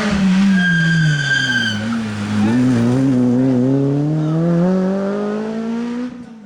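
Rally car engine dropping in pitch as the car slows for a corner, with a high tyre squeal for about a second. The engine then climbs steadily as the car accelerates away, and the sound cuts off abruptly near the end.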